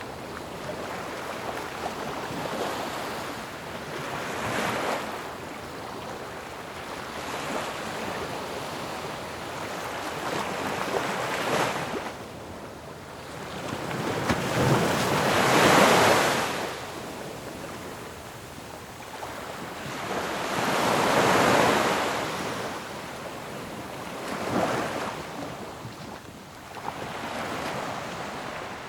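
Ocean waves breaking on a shore: a steady wash of surf with waves surging in and fading every few seconds, the biggest crashes about halfway through and again some seconds later.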